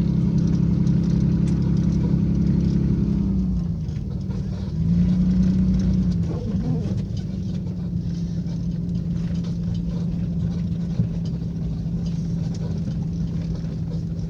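2002 Jeep Liberty's 3.7-litre V6 running while driving on a snowy road in four-wheel-drive high. It holds a steady drone, drops off about three and a half seconds in, swells again briefly around five seconds, then settles to a steady, quieter note.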